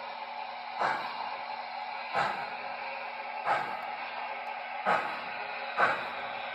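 O scale model train running, with a steady whirring rush and a low hum. Short sharp accents come roughly every second and a bit.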